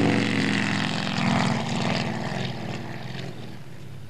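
Leyland P76 V8 engine running hard as the car slides past on dirt, its note fading steadily as it drives away, with a haze of tyre and dirt noise over it.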